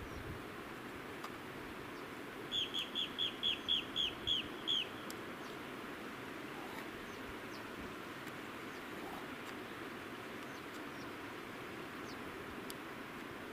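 A bird calls in a quick series of about nine short, downward-slurred notes, roughly four a second, a few seconds in. Under it runs the steady rush of a mountain stream.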